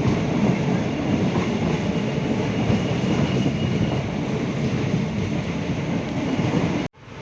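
Train running on the rails, a loud steady noise of wheels and rolling stock. It cuts off suddenly near the end.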